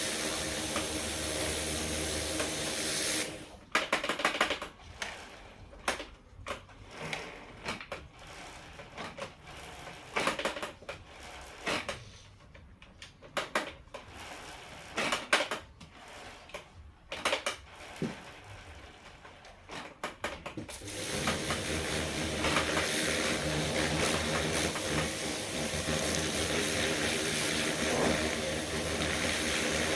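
Irregular sharp clicks and metallic knocks, as of hand tools working, for about seventeen seconds, between stretches of a steady mechanical noise that stops about three seconds in and comes back about twenty-one seconds in.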